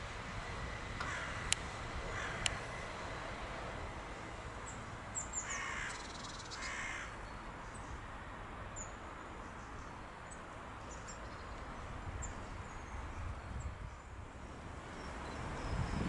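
Harsh, cawing bird calls: four short caws in two pairs, about a second in and again about five seconds in, over a steady low rumble. Two sharp ticks come near the first pair, and faint high chirps of small birds are scattered through.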